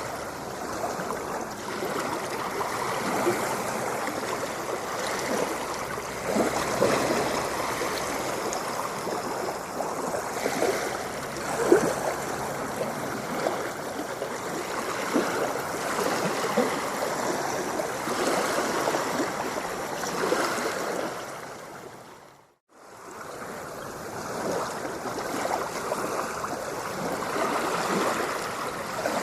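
Water splashing and gurgling in a continuous rush of small splashes. A little after 22 seconds it fades out to a moment of silence, then fades straight back in.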